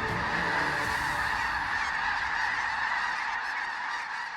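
A large flock of geese calling continuously, a dense mass of overlapping honks that fades out near the end.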